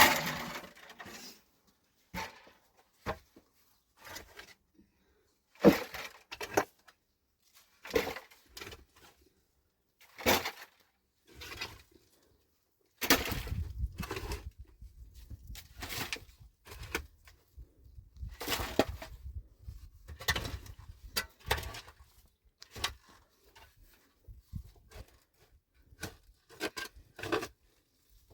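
Irregular knocks and clatters, one every second or two, with short silences between them. A low rumble runs underneath from about halfway through.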